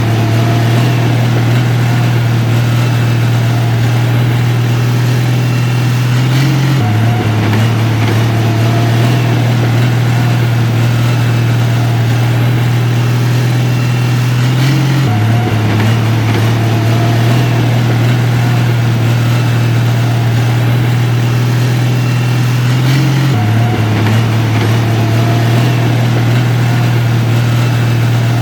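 Heavy diesel engine of construction equipment running steadily with a loud low drone, its pitch stepping slightly about every eight seconds.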